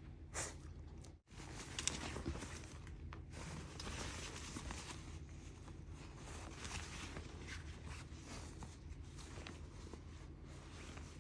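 Soft, irregular rustling and handling noises over a low steady hum, with a sudden break about a second in.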